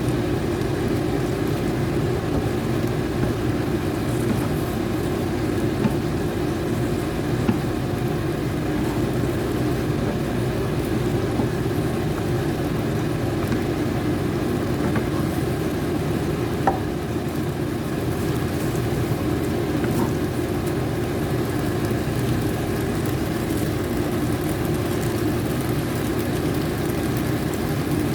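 Steady sizzle of food frying in a pan, with a couple of faint clicks.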